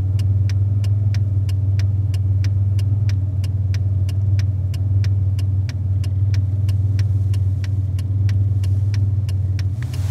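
Car engine idling, a steady low hum heard from inside the cabin, with a fast regular ticking about four times a second over it.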